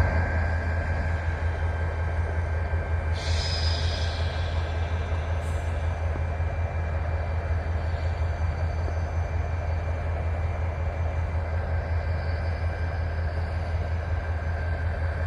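Freight train rolling past, a steady rumble of the cars on the rails, with a brief high wheel squeal about three seconds in.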